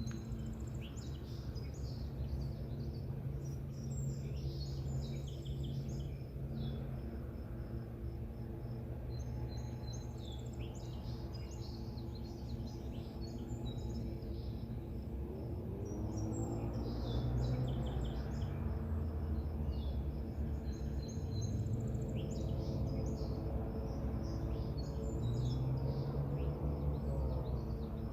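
Small birds chirping in scattered bursts of short calls over a steady low hum, which grows louder, with gliding pitches, from about halfway through.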